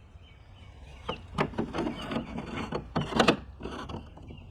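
Plastic kayak rod-holder base plate being detached and slid into the kayak's mounting track: a run of clicks and scraping from about a second in until nearly the end.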